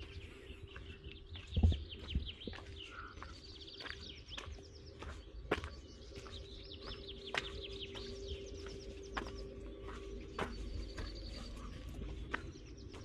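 Many songbirds chirping and singing, with quick repeated falling notes, over a steady low hum. A single low thump comes a little under two seconds in.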